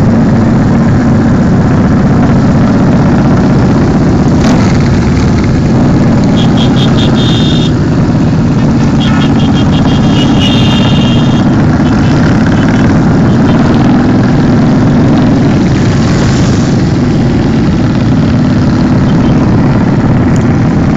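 Motorcycle engines running steadily and loud, with two brief runs of fast high ticking in the middle.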